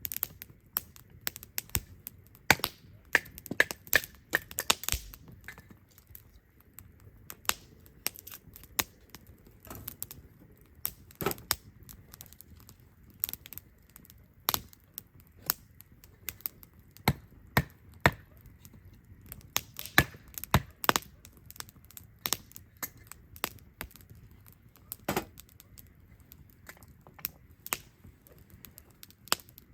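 Wood campfire crackling: irregular sharp pops and snaps, sometimes several a second and sometimes a few seconds apart, over a faint low background.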